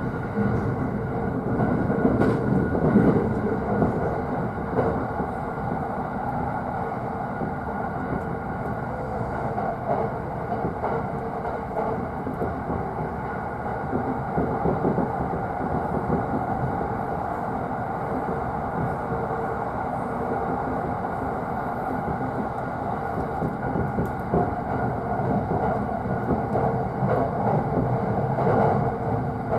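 Running noise of a JR East E531 series electric train, heard inside the upper deck of a double-deck Green car: a steady rumble with a faint steady tone above it. It swells a little about three seconds in and again near the end.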